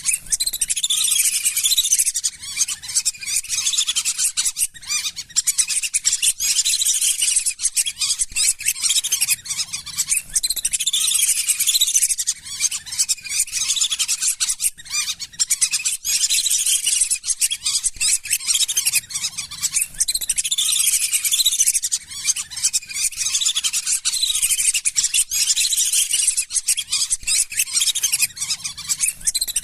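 Flock of lesser whistling ducks calling: many high-pitched whistled calls overlapping without pause, played as a duck-lure recording.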